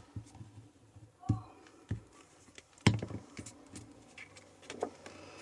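Light taps and knocks of craft supplies being handled on a desk, a few scattered, with one sharper tap about three seconds in.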